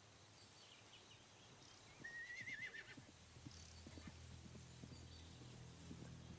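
A horse whinnies once, briefly, about two seconds in, then scattered hoof clops of horses approaching follow, faint, over a low steady drone.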